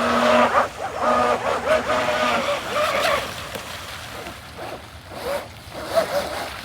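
Electric motor of a radio-controlled model boat whining, its pitch wavering and shifting as the throttle changes, loudest in the first three seconds and then fading.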